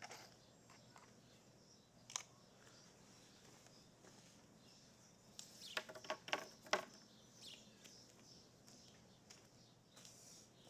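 A few faint, sparse clicks and knocks from handling tools and wood: one sharp click about two seconds in, then a quick cluster of sharp taps with a brief ringing about halfway through.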